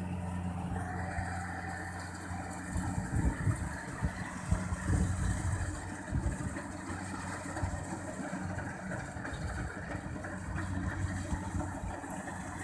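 Engine of a Kubota rice combine harvester running steadily, joined by irregular low thumps from about three seconds in.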